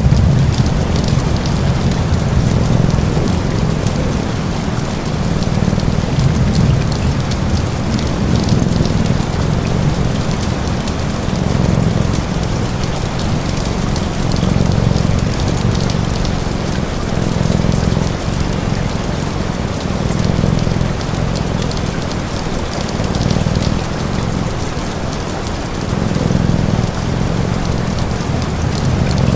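Steady rain falling on a surface, with a low purr beneath it that swells and fades every second or two.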